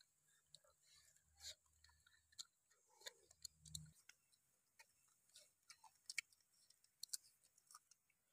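Near silence broken by faint, scattered clicks and smacks of people chewing and eating chicken with their hands.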